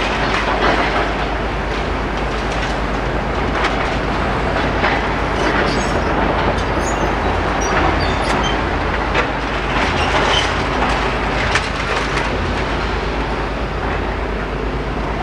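Tracked excavators working on a demolition site: a steady engine and track rumble with scattered metal clanks and scrapes as debris is picked up with a grabber.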